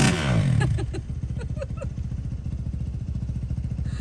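Dirt bike engine going past, its pitch falling over the first second, then settling into a low, steady, pulsing engine rumble.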